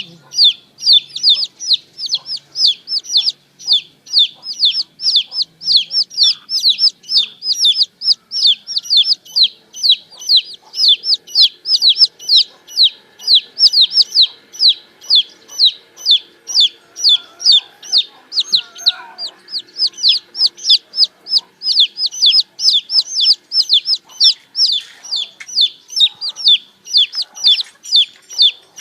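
Baby chicks peeping without pause: a rapid, even string of short, high-pitched, falling peeps, about three a second.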